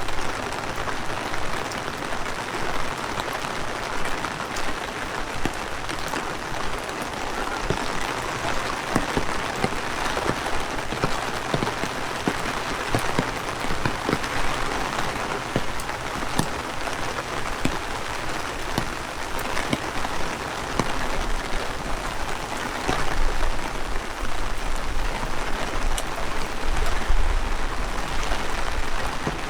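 Heavy rain falling steadily, with many individual drops ticking sharply close by. A low rumble builds over the last several seconds.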